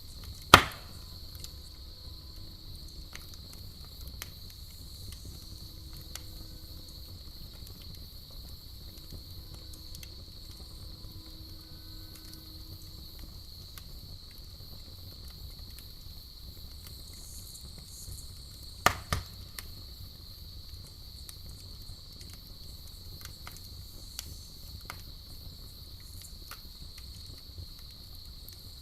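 Campfire crackling, with scattered small pops and two loud, sharp pops, one right at the start and one about two-thirds of the way through, over a steady high-pitched cricket trill.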